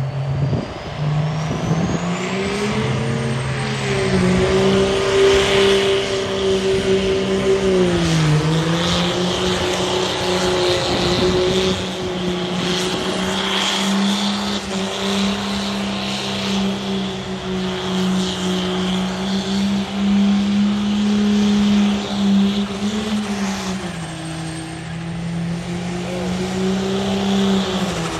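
A high-horsepower turbo-diesel truck engine held at high revs under heavy load, with a high whine rising over the first few seconds. The revs dip briefly about eight seconds in and drop a step a little before the end.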